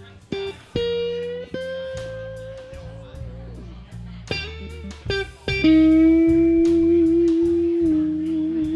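Live band playing an instrumental passage: an electric guitar holds long lead notes over bass and drums with a steady hi-hat tick. One note slides down about three seconds in, and a louder held note comes in near six seconds.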